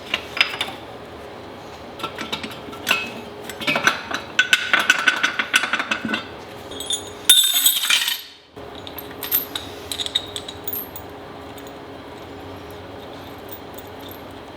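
Metal tools and parts clinking and clattering in quick irregular knocks for the first half. About seven seconds in comes a louder hissing burst of about a second. A few more clicks follow, then only a low steady hum.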